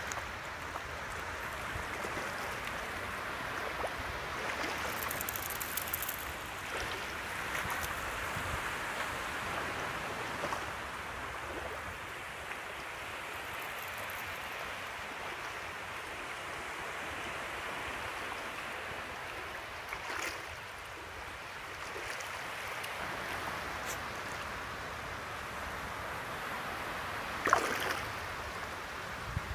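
Small sea waves washing onto a sandy beach: a steady rushing noise, with a short louder sound near the end.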